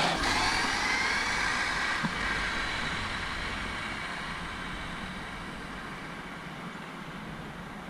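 Arrma Mojave 6S BLX RC truck's brushless motor whining over tyre noise, the pitch dropping at first and the sound fading steadily as the truck drives away.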